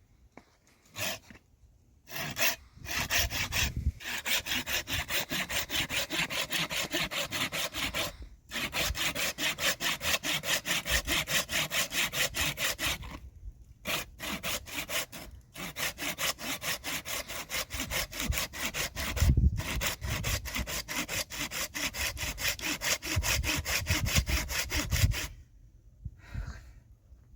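Hand saw cutting through wood, about three to four strokes a second, in several long runs broken by short pauses.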